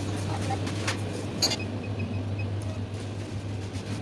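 Steady low hum under a background noise bed, with a few short clicks in the first second and a half and a faint repeated high beep about two seconds in.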